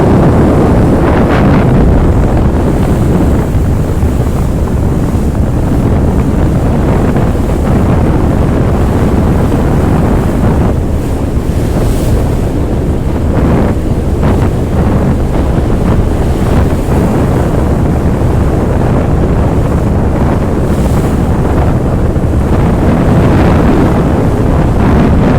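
Wind buffeting the microphone: a loud, steady low rumble with brief gusts.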